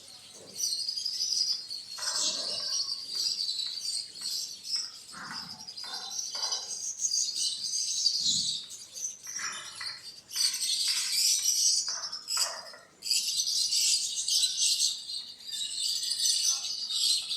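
Many small birds chirping and twittering at once, a dense high-pitched chatter that keeps on with only brief dips, mixed with a few short lower calls.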